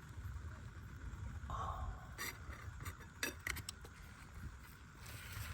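A handful of light metal clinks, like a utensil tapping against a cooking pan, bunched about two to four seconds in over a low steady rumble.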